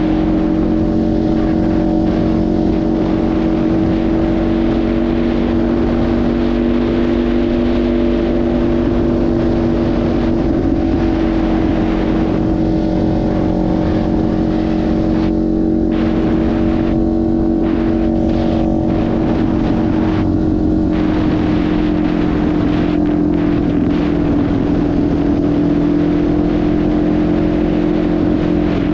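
Kawasaki Ninja 500 parallel-twin engine running at a steady speed as the motorcycle cruises, under a steady rushing noise. Its pitch dips slightly about ten seconds in and sags a little near the end.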